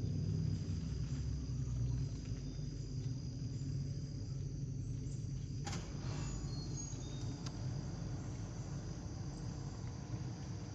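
Insects, likely crickets, trilling steadily over a low, steady rumble, with a few short high bird chirps and one sharp click about six seconds in.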